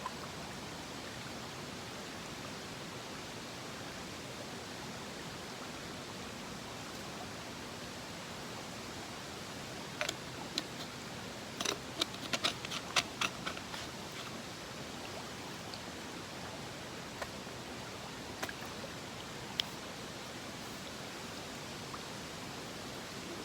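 Mountain stream rushing steadily. A quick cluster of small clicks and clinks about ten seconds in, and a few single clicks a little later, over the water.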